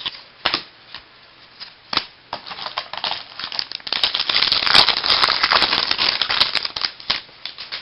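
Baseball trading cards being handled and flipped through by hand. A couple of light taps come first, then a few seconds of rustling and sliding card stock with small clicks.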